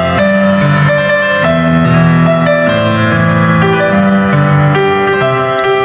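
Piano playing a slow passage of sustained chords, with no singing.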